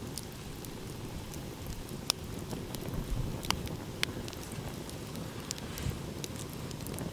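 Wood fire crackling, with scattered sharp pops, the loudest about two seconds in, over a steady low rumble of sea waves.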